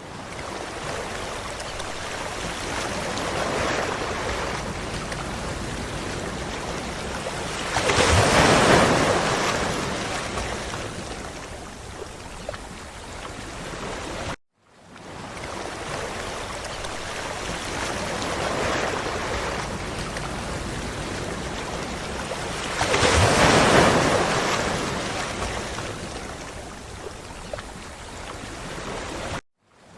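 Ocean waves on a beach: a steady wash of surf, with a wave breaking loudly about eight seconds in and again about twenty-three seconds in. The sound cuts out briefly about halfway, where the same stretch of surf starts over as a loop.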